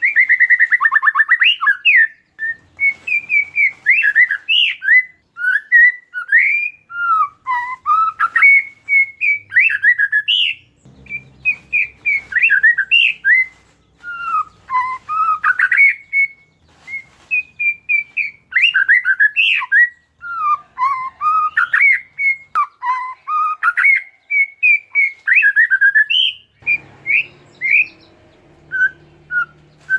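Oriental magpie-robin (kacer) singing a rapid, varied song of short whistled notes and chattering sweeps, phrase after phrase with only brief pauses.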